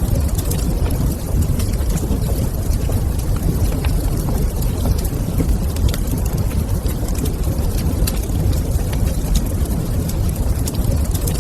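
Wood fire crackling in a fireplace: scattered small sharp pops and snaps over a steady low rumble.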